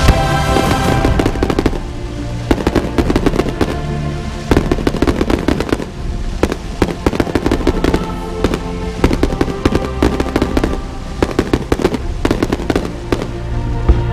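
Aerial fireworks bursting and crackling in rapid, irregular volleys, many bangs a second, with music playing throughout.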